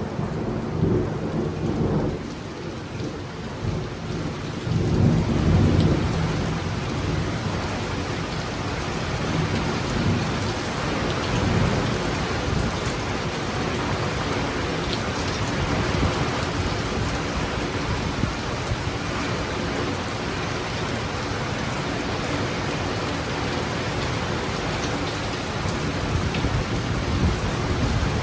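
A sudden thunderstorm: heavy rain falling steadily, with rolling thunder whose loudest rumble comes about five seconds in, then weaker rumbles while the rain keeps on.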